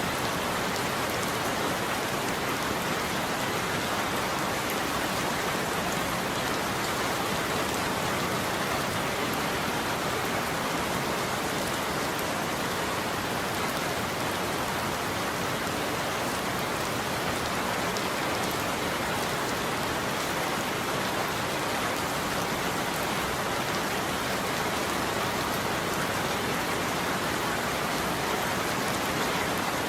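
Steady heavy rain falling on a roof, an even hiss without thunder.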